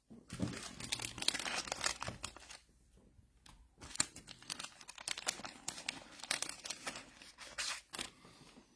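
Trading-card packs and cards being handled close to the microphone: wrappers crinkling and tearing, with quick crackly rustles. It comes in two stretches, with a short pause about three seconds in.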